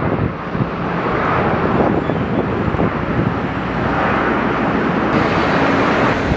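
Airliner engines running with a steady rush, mixed with wind on the microphone; a thin high whine joins about five seconds in.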